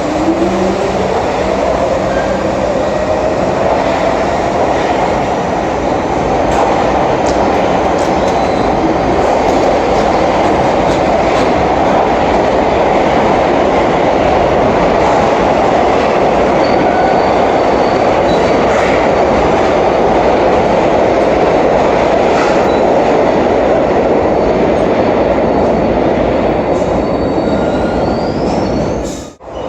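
New York City subway train running loud and steady through an underground station, with a motor whine climbing in pitch over the first couple of seconds. Faint high wheel squeals come in the second half.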